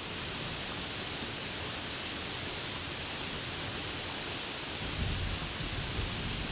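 Steady heavy rain hissing, with a low rumble of thunder coming in about five seconds in.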